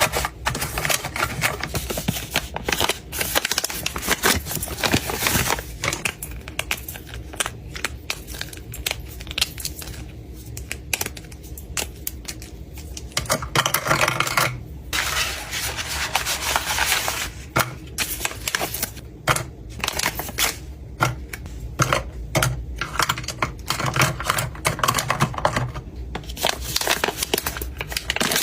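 Close-up handling of packaging and small objects: plastic and paper crinkling and rustling, broken by many quick clicks and taps as items are set down and arranged.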